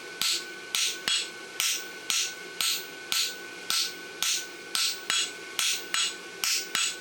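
Light, evenly paced hammer blows on red-hot steel at the anvil, about two a second, over a steady metallic ring. This is the first light marking pass of creasing the inside branch of a forged horseshoe, kept light because the steel is very hot.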